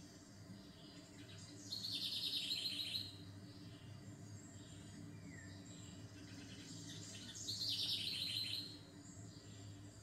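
Songbirds singing: two loud, rapid trills of quickly repeated notes, each just over a second long, about two seconds in and again about seven and a half seconds in, with fainter chirps from other birds in between.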